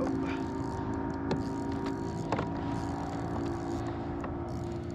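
A steady motor hum holding a few even tones, with a few light clicks over it.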